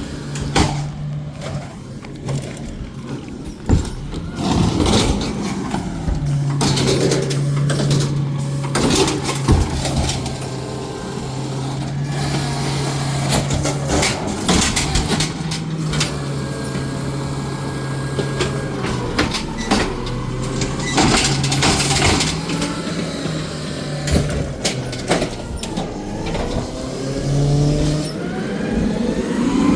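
Garbage truck with its engine running steadily, held at a raised speed from about six seconds in until near the end, with repeated clanks and knocks throughout.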